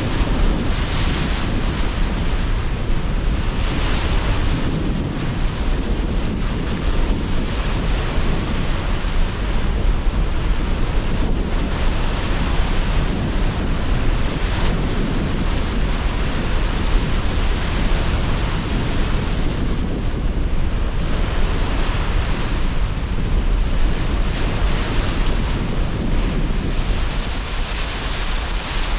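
Sea surf washing in under strong, gusting wind, a continuous deep rush with swells of brighter hiss every few seconds as waves break.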